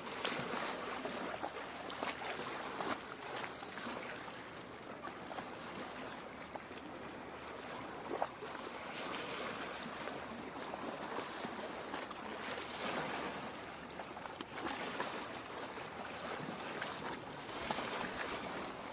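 Small waves lapping against a lake shore: a steady wash of water broken by frequent small splashes and gurgles.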